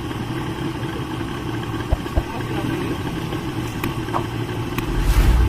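Yamaha 200 hp two-stroke outboard engine idling steadily, with two short knocks about two seconds in and a louder low thump near the end.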